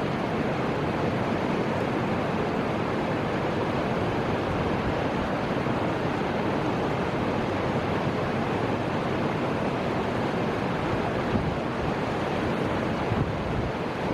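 Steady rushing of flowing river water, with wind.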